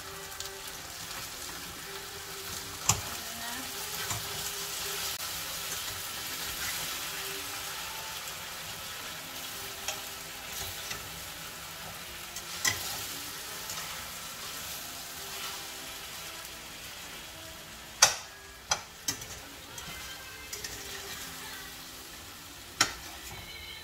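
Turkey neck pieces and potatoes sizzling in a stainless frying pan while being stirred with a spatula, with several sharp knocks of the spatula against the pan, the loudest about three quarters of the way through.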